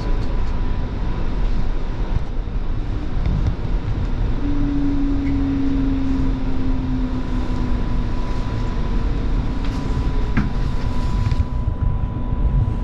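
Alstom Citadis Spirit light-rail vehicle running on its line, heard from inside the car: a steady low rumble of wheels on rail with a faint constant high tone. Midway a motor whine comes in and sinks slightly in pitch for a few seconds.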